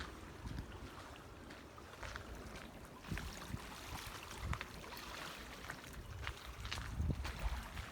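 Footsteps of a person walking, a scattering of irregular soft knocks, over a low wind rumble on the microphone.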